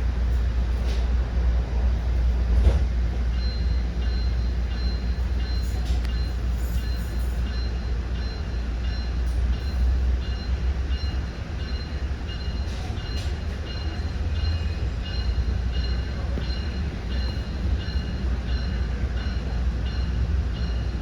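Commuter train heard from inside a passenger coach: a steady low rumble with a few faint clicks. From a few seconds in, faint high-pitched tones repeat at short even intervals.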